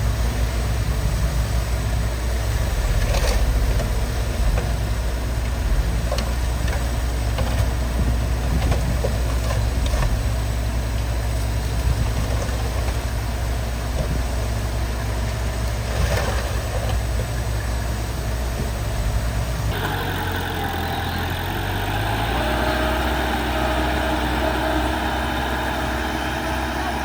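Heavy diesel earthmoving machinery running steadily, with a few sharp clanks. About 20 seconds in, the sound switches abruptly to a different engine note with a steady hum.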